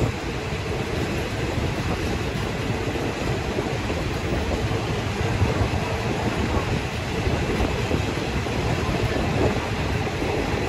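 Passenger train carriage running along the track: a steady rumble of wheels on rail, heard from an open window of the moving carriage.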